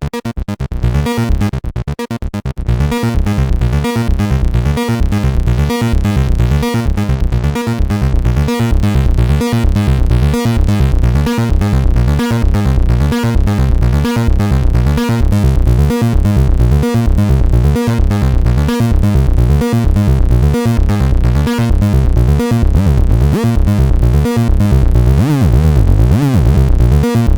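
Behringer TD-3-MO, a TB-303-style acid bass synthesizer, playing a fast repeating sequenced bass line from an 8-step sequencer. It gets louder a few seconds in, and near the end a swirling sweep is added over the pattern.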